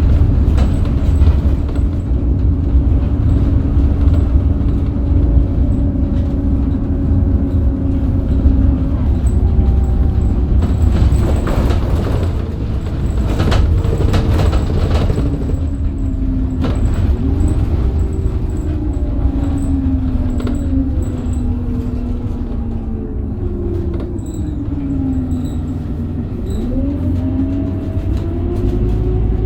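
Scania DC9 diesel engine and ZF Ecomat automatic gearbox of a 2008 Scania K270UB bus running at a steady pitch, then winding down with a falling whine through the middle and later part as the bus slows. Near the end the pitch rises again as it picks up speed.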